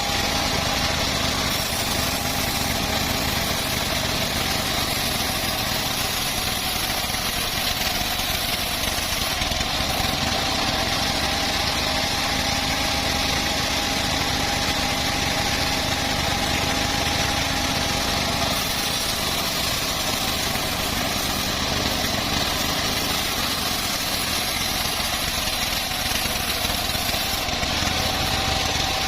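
Homemade engine-driven bandsaw sawmill running steadily, with a constant machine tone throughout.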